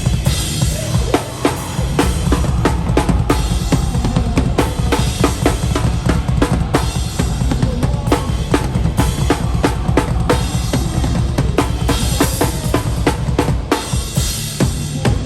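A live hardcore band playing at full volume, with the drum kit close up and loudest: fast, heavy kick-drum and snare hits over a thick low end of bass and guitars. Meinl cymbals crash near the start and again near the end.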